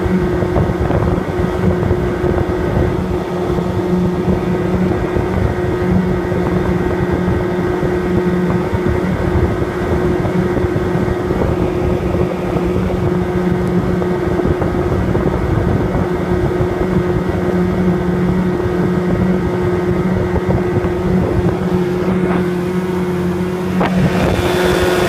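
1976 Evinrude 35 HP two-cylinder outboard running at high speed with a steady pitch, with wind on the microphone. The engine is missing at high rpm and running on one cylinder, which the owner puts down to bad condensers and points.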